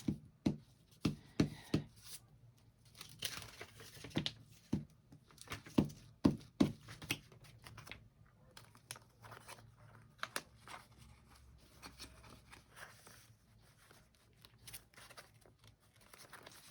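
Magazine paper being handled and torn for a collage: rustling, short tearing sounds and scattered light taps on the table.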